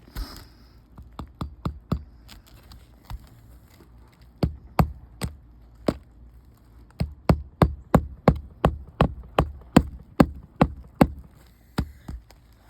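Hand hammer driving roofing nails through the nail strip of asphalt architectural shingles: a few scattered strikes, then a quick even run of about three blows a second for several seconds, with a last couple of strikes near the end.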